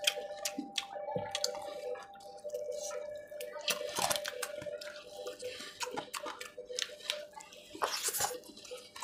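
Close-up wet chewing and lip-smacking as roasted chicken leg meat is pulled off by hand and eaten, a run of quick moist clicks with louder smacky bursts about four seconds in and again near the end.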